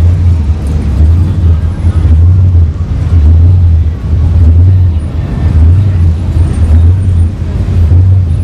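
Car engine and exhaust rumbling at low speed, a deep throb that swells and eases every second or so.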